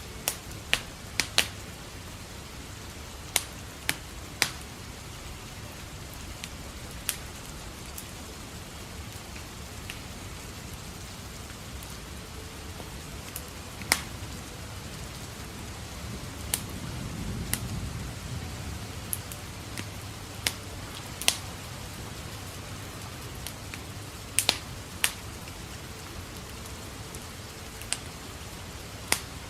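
Steady rain with a wood fire in a fireplace crackling in irregular sharp pops. A low rumble of distant thunder swells and fades about halfway through.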